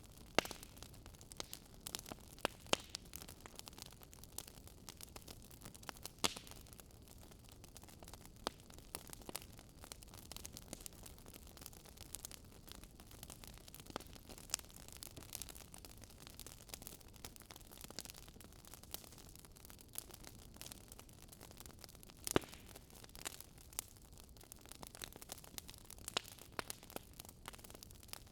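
Wood fire crackling in a fireplace: irregular sharp pops and snaps over a low, steady hiss. Two louder pops, one near the start and one about three-quarters of the way through.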